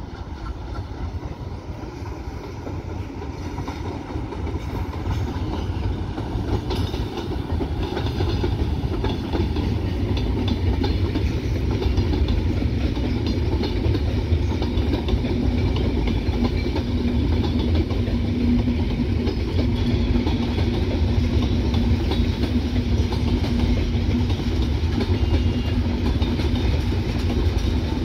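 Intercity passenger train rolling past on the rails, a low rumble that builds over the first ten seconds or so and then holds steady, with the clatter of the coaches' wheels and a steady hum joining in partway through.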